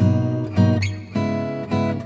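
Music: an acoustic guitar strumming chords, a fresh strum about every half second.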